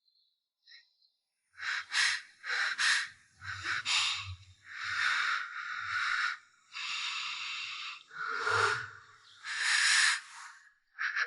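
A series of breathy, hissing bursts, one after another, some short and some drawn out over about a second.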